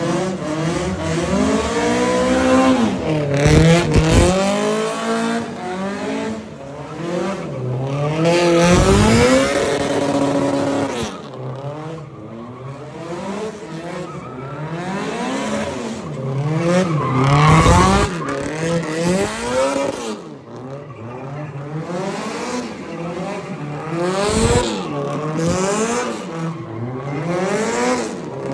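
Car engines revving hard again and again, each rev rising and falling in pitch, several cars overlapping.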